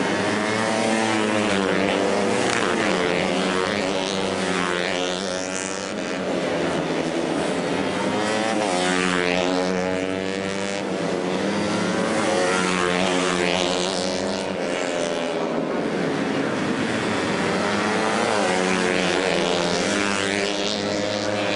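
Racing motorcycle engines revving hard and shifting through gears as the bikes pass. The pitch rises and falls in waves every few seconds over a steady din of engines.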